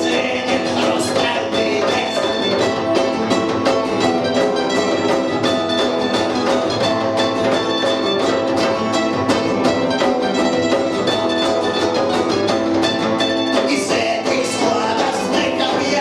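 Punk rock band playing a song live, loud and unbroken, with a steady beat.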